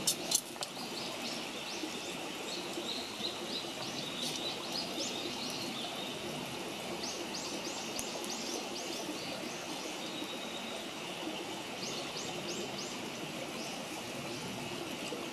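Small birds chirping in several quick series of high rising notes over a steady rushing background, with a couple of sharp pops from the wood fire about half a second in.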